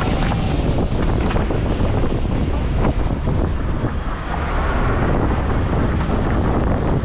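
Wind buffeting the microphone with the steady rush of a moving car. The noise is loud and even, heaviest in the low range.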